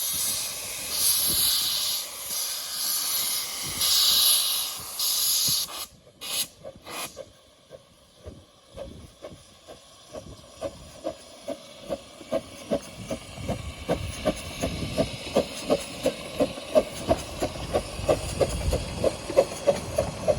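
A 15-inch gauge miniature steam locomotive letting off a loud, pulsing hiss of steam for about six seconds. Then a run of sharp, regular beats that come faster and louder, from about two to three a second, as the train gathers speed.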